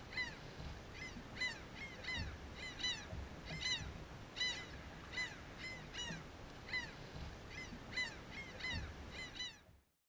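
A flock of birds calling: many short calls that rise and fall in pitch, overlapping at about two a second, fading out just before the end.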